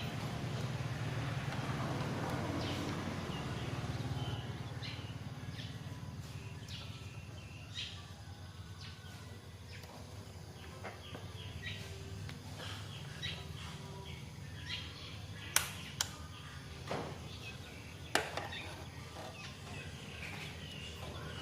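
Birds chirping over a low steady hum, with a few sharp clicks near the end.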